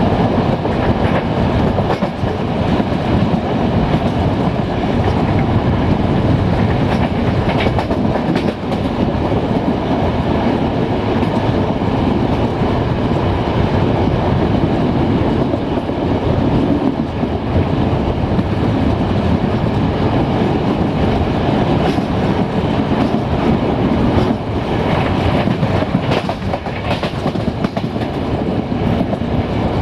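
Passenger train running along the track: a steady rumble of the coaches' wheels on the rails, with a few clicks from rail joints passing beneath.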